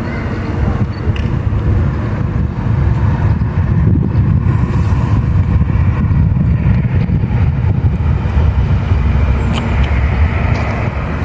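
Train running past with a steady low rumble and a few sharp clicks.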